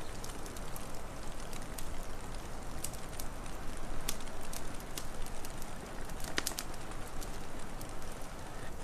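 Wood fire crackling, with irregular sharp pops and a brief cluster of snaps about six and a half seconds in, over a steady rushing background.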